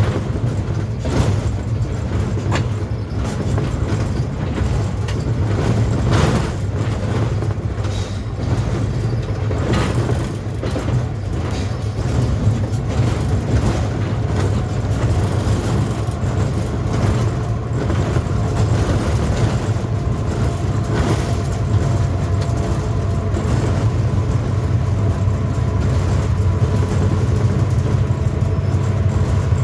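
Passenger express train running through a station: a steady low rumble from the coaches and locomotive, with repeated clicks and clacks of wheels over the rail joints.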